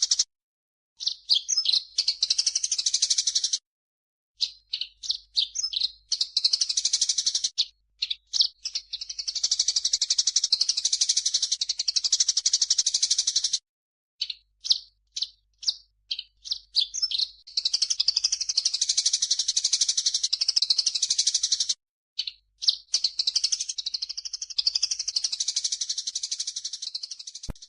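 Recorded songbird chirping from a cucak jenggot (grey-cheeked bulbul) and Eurasian tree sparrow bird-song training track: rapid, high-pitched chattering runs and strings of separate chirps. The runs cut off abruptly into short gaps of silence several times, where the recording is edited.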